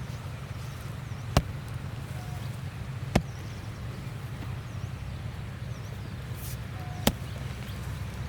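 Three sharp strikes of a hoe into the soil, spaced a couple of seconds apart, over a steady low rumble.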